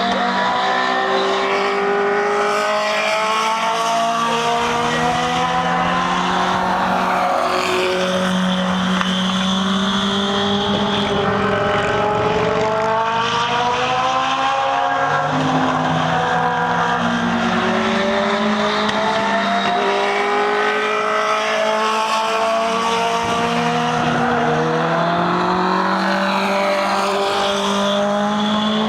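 Legend race car's four-cylinder motorcycle engine at racing speed on a short oval. Its pitch climbs under throttle, drops as the driver lifts, then climbs again, repeating every several seconds. The level stays steady throughout.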